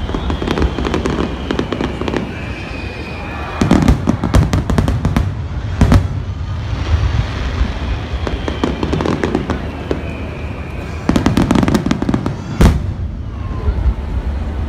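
Aerial fireworks shells launching and bursting: volleys of sharp bangs and crackles about four seconds in, one about six seconds in, and another volley around eleven to twelve seconds, over a steady low rumble. High, slowly falling whistling tones sound in the quieter stretches between the volleys.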